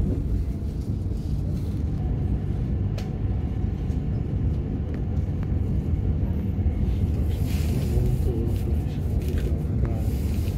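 Steady low rumble of a passenger train running along the track, heard from inside the carriage, with a few faint clicks and a short hiss a little past halfway.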